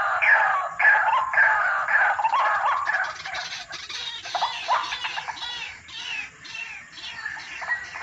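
White-breasted waterhen (ruak-ruak) calling: a run of harsh, repeated calls, about two a second, that become quieter and more broken after about three seconds.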